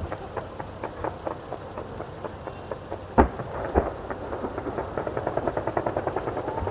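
Fireworks going off: scattered pops and crackles, a loud bang about three seconds in with a second shortly after, then a quickening run of crackling near the end.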